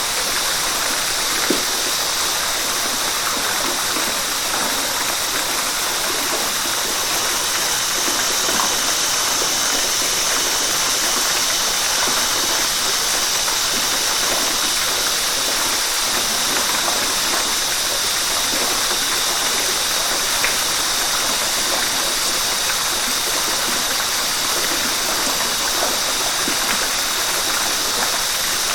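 River water rushing steadily over rocks, a constant even rush with small splashes and gurgles scattered through it.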